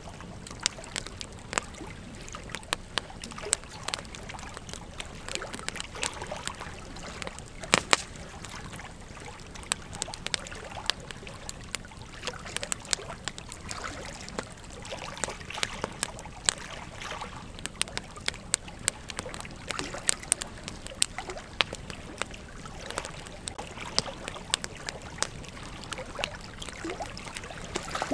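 Campfire burning with irregular crackles and pops over a steady low hiss, with one louder pop about eight seconds in.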